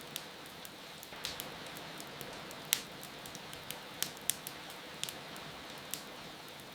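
Wood fire crackling, with irregular sharp pops and snaps, a few of them louder, over a steady hiss of falling rain.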